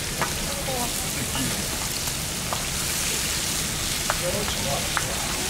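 Steady sizzling hiss with a few sharp crackles, from cooking over a campfire; faint voices in the background.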